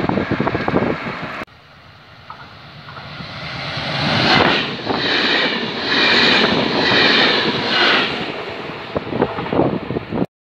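A double-deck electric regional train (Trenitalia TAF) approaching and passing close by. Its wheel-and-rail noise rises, then runs loud with an even pulsing about once every 0.8 s, and cuts off abruptly near the end. The first second and a half is the end of another train recording, ending in a sudden cut.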